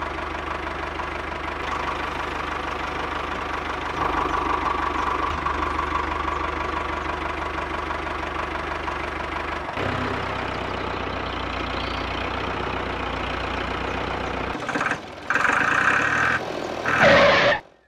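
A small engine running steadily with a knocking beat. Its sound shifts about ten seconds in, dips briefly near the end, then comes back louder in short stretches before cutting off.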